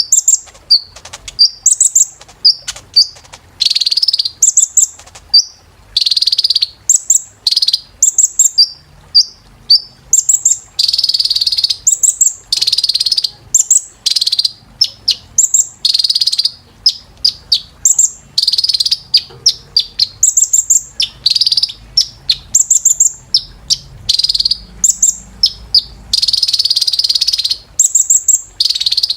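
Kolibri ninja sunbird singing: a loud, fast string of high chirps and short notes, broken by dense trilling runs lasting a second or two.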